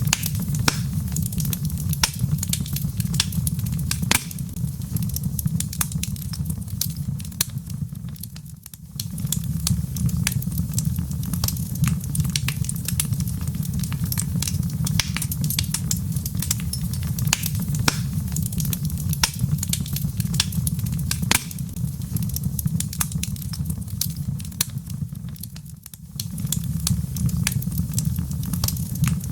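Wood fire in a fireplace, crackling and popping with many sharp snaps over a steady low rumble. The whole sound briefly drops away and returns twice, about nine seconds in and near the end.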